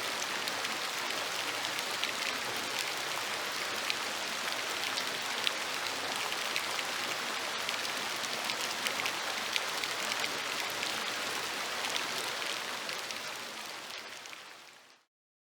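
Steady rain pattering, a dense hiss of many small drops, fading out near the end.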